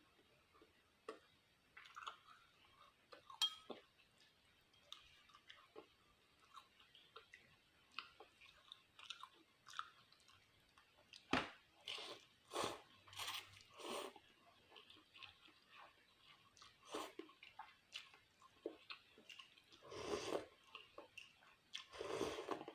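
A person chewing food close to the microphone, with irregular small smacks and crunches that come thicker about halfway through and again near the end.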